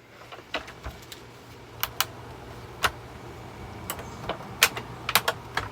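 Irregular light clicks and knocks from a Hoover vacuum cleaner being worked apart, about ten in all and bunched near the end, over a faint steady low hum.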